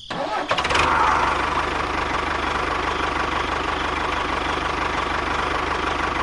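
A motor starts about half a second in and runs steadily, with a fast, even low pulse like an idling engine.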